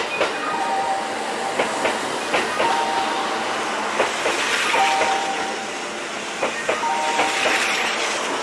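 Kintetsu limited express train running past close by, its wheels clicking over rail joints and points in an uneven rhythm over a steady rumble and hiss. Short, steady high tones come and go every couple of seconds.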